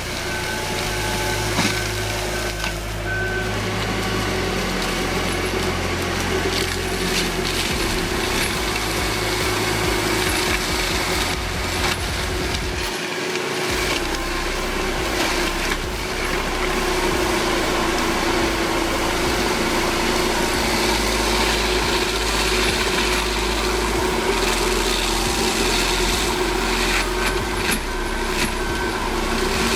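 Heavy machinery engine running steadily with a sustained hum, with occasional sharp knocks and cracks.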